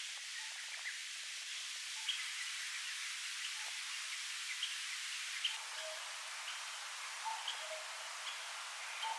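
Steady rustling hiss of wind in foliage, with birds chirping now and then: short high notes and a few lower ones.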